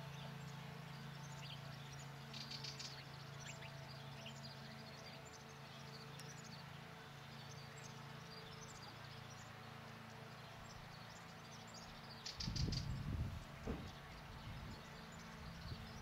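Small birds chirping and twittering throughout, with two brief rapid trills, over a steady low hum. A few louder low rumbling thumps come in near the end.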